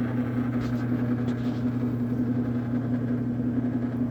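Electric boat lift motor running with a steady hum as it slowly lowers a small boat toward the water.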